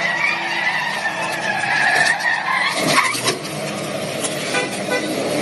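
Car tyres squealing in one long wavering squeal over the first two and a half seconds, over steady car and road noise, with a couple of sharp knocks about three seconds in.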